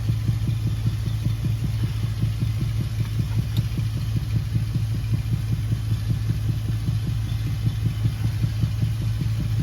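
An engine idling steadily with a fast, regular low throb.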